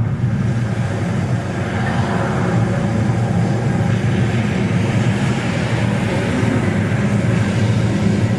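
Loud, steady rumbling noise from a museum exhibit, seemingly set off by a visitor.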